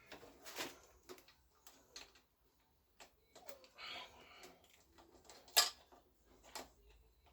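Scattered light clicks and knocks of hands handling motorcycle cables and small parts, with one sharper click about five and a half seconds in and a brief rustle around four seconds in.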